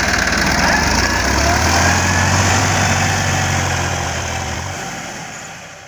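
Massey Ferguson 9500 4x4 tractor's diesel engine running steadily, its low note stepping up slightly about a second in, then fading away near the end.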